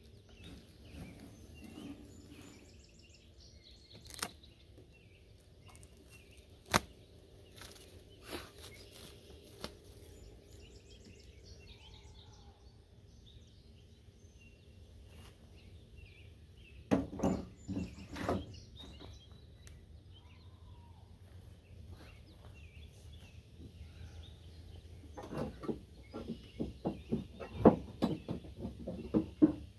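Outdoor ambience with birds chirping over a steady low hum, broken by sharp clicks and knocks of things being handled: a few single clicks early, a cluster about halfway through, and a denser run of knocks near the end.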